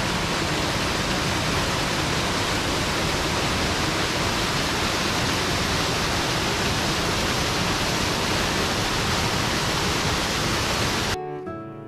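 Waterfall rushing, a loud steady roar of falling water. Near the end it cuts off abruptly and acoustic guitar strumming starts.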